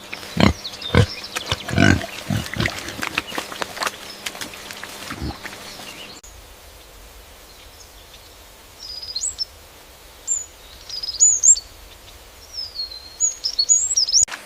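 Piglet grunting and snuffling in short low calls for about six seconds. Then, after a sudden change, a run of quick high-pitched chirps.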